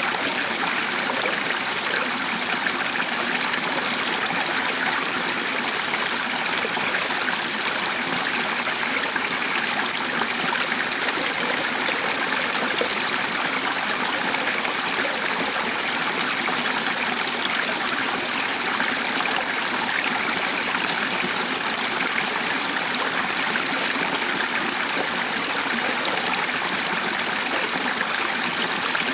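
A stream running steadily, a continuous even rush of flowing water with no change over the whole stretch.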